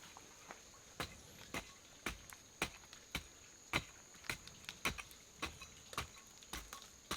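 Evenly paced blade strikes chopping into wood, about two a second, starting about a second in, over a steady high-pitched insect call.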